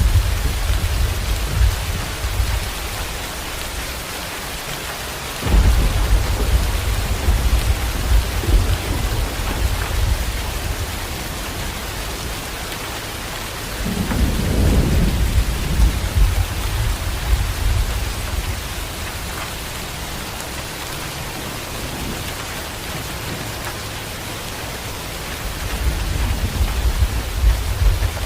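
Heavy rain falling steadily, with rolls of thunder coming and going: one starts suddenly about five seconds in, another swells about halfway through, and a third builds near the end.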